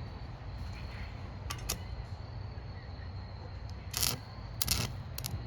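Stick-welding electrode scratched on the metal to strike an arc: a handful of brief crackles as the arc catches and drops out, over a steady low hum.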